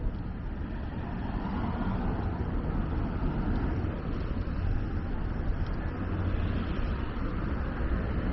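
Street traffic noise from cars passing, a steady rumble that swells and eases slightly as vehicles go by.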